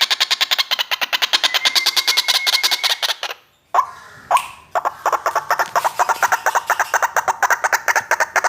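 White-breasted waterhen calling in a fast series of clicking notes, about a dozen a second. The series breaks off a little over three seconds in and starts again about a second and a half later.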